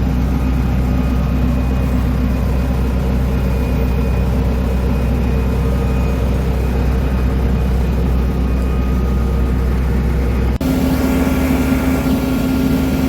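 Diesel engine of heavy construction equipment running steadily at a constant speed. About ten and a half seconds in, the sound cuts abruptly to another steady engine hum with a higher, stronger drone.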